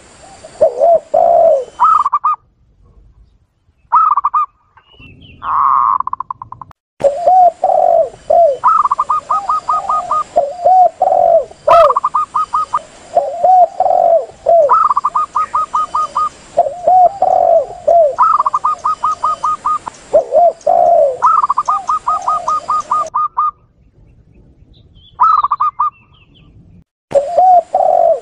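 Lure recording of spotted doves and zebra doves calling: low arched coos alternate with fast runs of higher, clipped notes, repeated over and over. The calls break off abruptly into short silences, about a quarter of the way in and again near the end.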